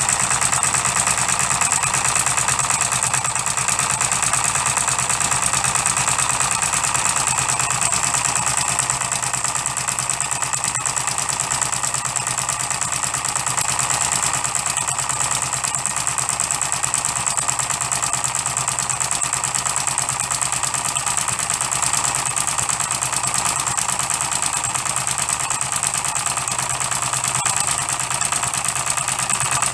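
Custom-built 12cc direct-injection model diesel engine running steadily, firing at an even rapid rate.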